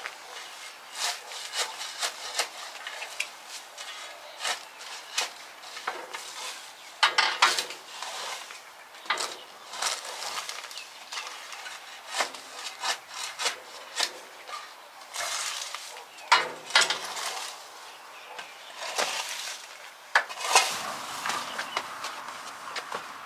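Irregular clicks, clinks and short scraping rubs of hard objects being handled and worked, like tools and parts, with a few louder knocks scattered through.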